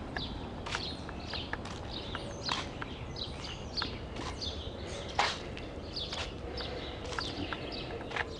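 Small birds chirping repeatedly in short, high calls, with scattered clicks and one louder knock about five seconds in.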